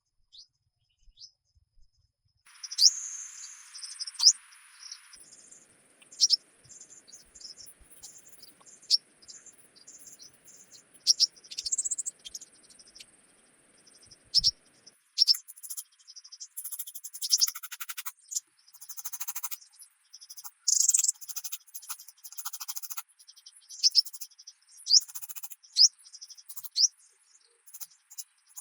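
Forest birds calling with many short, sharp, downward-sliding chirps, over a thin steady high insect drone that starts about two seconds in. Rapid rattling trills come in the second half.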